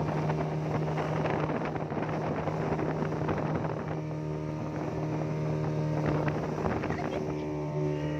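Motorboat engine running steadily while towing a banana boat, with wind buffeting the microphone and rushing water.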